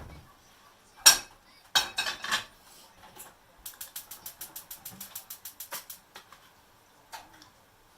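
Kitchen clatter: a few sharp knocks of cookware and utensils, then a quick, even run of about fourteen ratcheting clicks lasting about two seconds.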